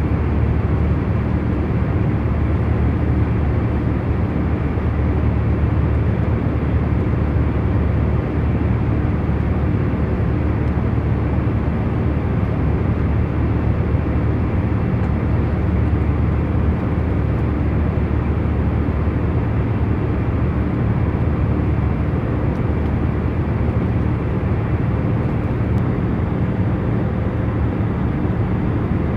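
Airliner cabin noise in cruising flight: a steady, even low rumble of engines and airflow, heaviest in the bass, with a few faint steady hums running under it.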